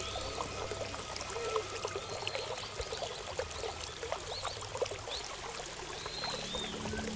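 Running water pouring and splashing steadily, as from a garden water feature, with a few short high chirps over it.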